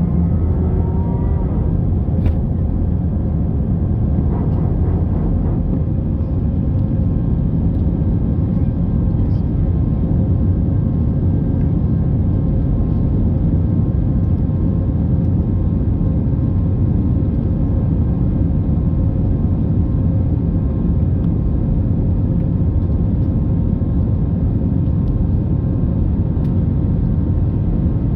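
Airbus A319 jet engines running steadily: a loud, unbroken rumble with a few steady tones above it.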